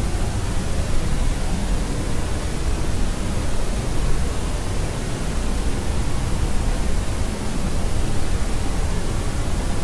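Steady sleep-aid noise: an even, unbroken hiss with more weight in the low end, like pink noise.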